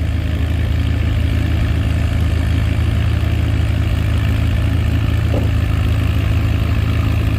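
Allis-Chalmers WC pulling tractor's four-cylinder engine running steadily at a constant pitch, loud and close.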